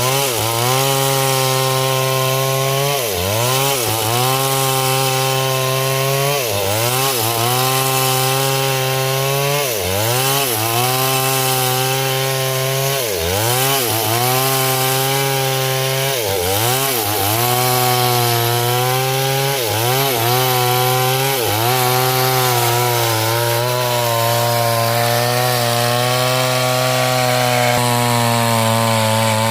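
Stihl MS 070 two-stroke chainsaw cutting through hard coconut wood, the engine pitch dipping and recovering every one to three seconds as the chain bites under load, then running steadily near the end.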